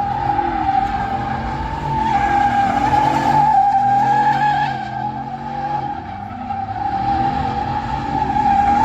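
Tyres squealing in one long, steady squeal while a vehicle's engine runs underneath, its pitch rising and falling.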